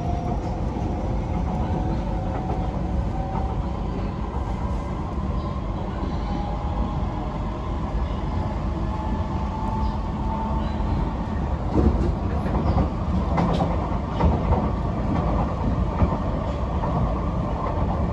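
Metro train running between stations, heard from inside the carriage: a steady rumble of wheels on track with a faint whine, growing a little louder with a few knocks in the second half.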